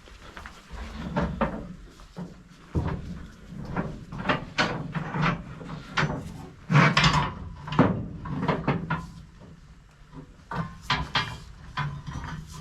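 A run of irregular knocks and clunks, loudest a little past the middle, as of hard objects being moved and set down.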